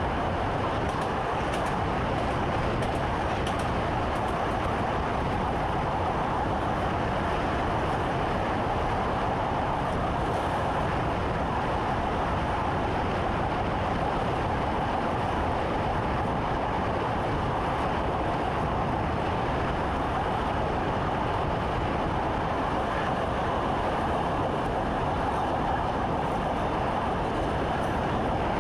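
Steady running noise of an electric train heard from inside the driver's cab: a constant rumble and hum of the moving train, with no changes in speed.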